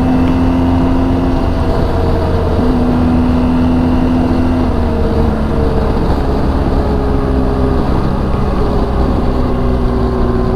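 BMW R1200 GS flat-twin boxer engine running at a steady cruising speed, its pitch holding level with small shifts every second or two, over heavy wind and road noise.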